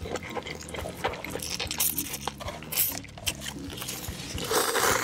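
Close-miked wet eating sounds: chewing with many small smacks and clicks, and a longer, denser wet noise about four and a half seconds in.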